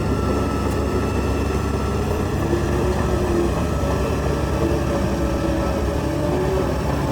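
Heavy diesel earthmoving machinery running steadily under load, with a faint wavering whine over the engine noise.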